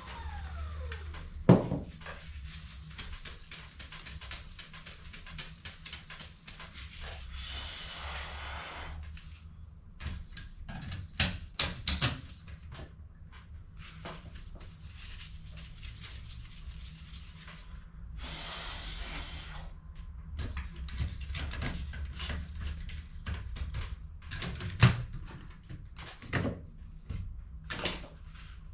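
HP CE285A laser toner cartridges being handled and worked on: irregular plastic clicks and knocks, the loudest a sharp knock about a second and a half in and a cluster around eleven to twelve seconds, with two short spells of hissing, over a steady low hum.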